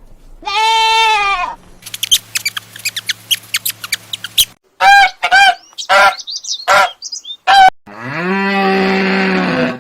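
A run of different animal calls: a drawn-out pitched call, then a stretch of clicking, then a string of short, high calls in the middle, and a long, lower call that falls and then holds near the end.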